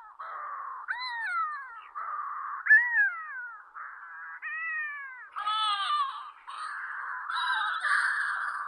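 Petrel calling: a series of drawn-out calls that slide down in pitch, about one a second, over a steady hiss. From about five seconds in, the calls come thicker and overlap.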